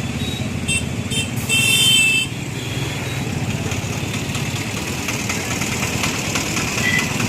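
Motorcycle engine running steadily while riding in traffic. Two short beeps come just before a second, then a brief, loud horn blast about one and a half seconds in.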